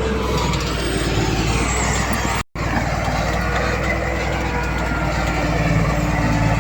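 Heavy diesel earthmoving machinery running steadily, broken once by a brief cut-out about two and a half seconds in.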